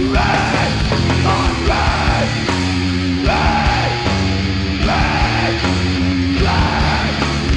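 Live heavy metal band playing at full volume: distorted electric guitars, bass and drums in a dense, driving riff.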